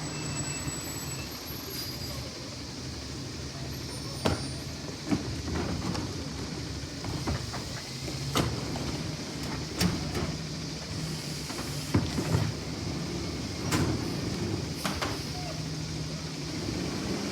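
Compressed-natural-gas garbage truck engine running steadily, with a series of sharp, irregular knocks over it.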